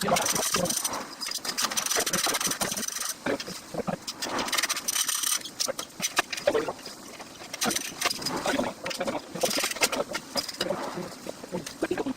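Irregular knocks, clicks and scraping noises from hands-on work on a car, with a few brief rasping bursts.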